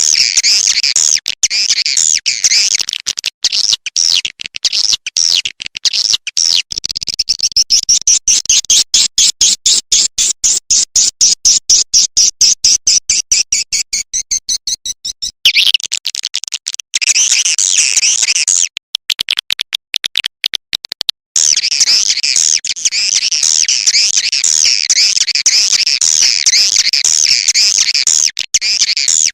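Swiftlet call-sound track, the kind played to lure swiftlets into a nesting house: dense, high twittering chirps, broken in the middle by a stretch of rapid, even pulsing before the twittering returns.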